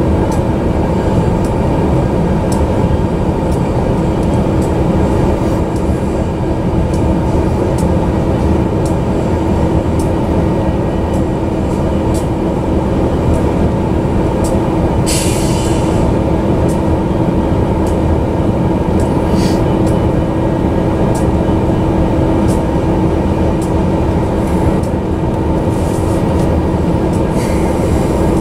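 Double-stack intermodal freight cars rolling past on the rails: a steady, loud rumble of steel wheels on track with a constant hum and a run of faint, regular clicks. A short high-pitched burst of noise comes about halfway through.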